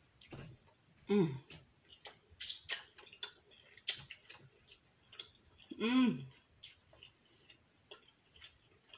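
A person chewing seafood, with scattered wet mouth clicks, and two brief vocal sounds from the eater: one about a second in and one around six seconds whose pitch rises then falls.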